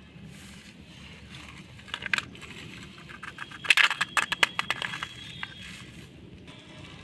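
Small plastic toys being handled and knocking together: a few sharp clicks about two seconds in, then a quick run of clicks and rattles near the middle.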